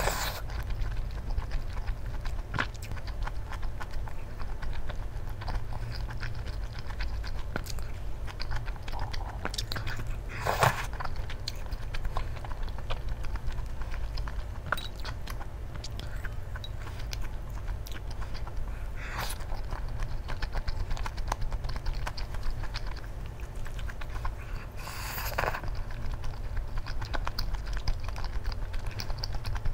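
Close-miked mukbang eating: chewing soft tteokbokki rice cakes and tofu noodles in spicy mala sauce, with small mouth clicks and a few brief louder sucking or slurping sounds spread through.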